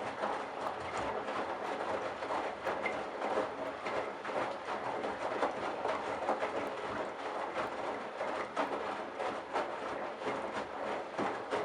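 Candy Bianca front-loading washing machine tumbling a load of wet towels: the drum turns, with water sloshing and the heavy wet load knocking irregularly.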